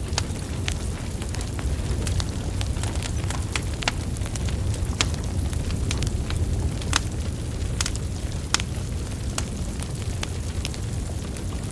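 Wood fire burning logs: a steady low rumble of flames with frequent irregular crackles and pops, a few louder snaps among them.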